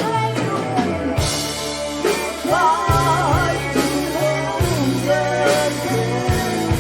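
Live rock band playing a ballad: a male voice singing with vibrato over electric guitar, bass and drums.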